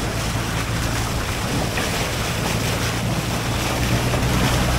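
Boat engine running with a steady low hum, over rushing water and wind buffeting the microphone.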